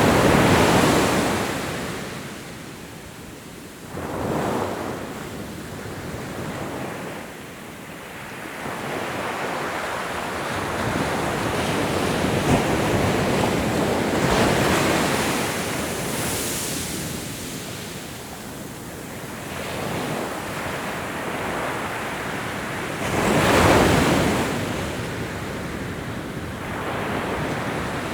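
Ocean waves breaking and washing on a shore, swelling and ebbing in surges every several seconds, with the biggest break about 23 seconds in.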